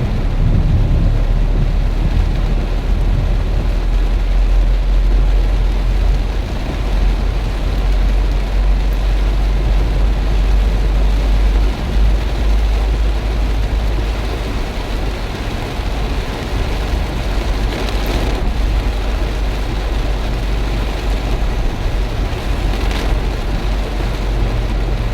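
Heavy rain pouring down, over a steady low rumble.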